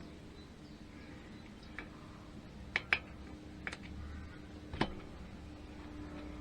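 A handful of light, sharp clicks and taps from small engine parts and hand tools being handled, two in quick succession about three seconds in, over a faint steady hum.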